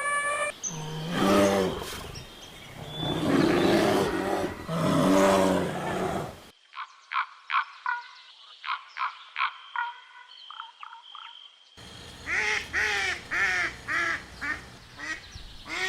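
Edited run of farm-animal calls. First, three long, low cow moos. Then, after an abrupt cut, a quick series of short duck quacks and calls, followed by another cut to a run of higher, arching calls several to the second.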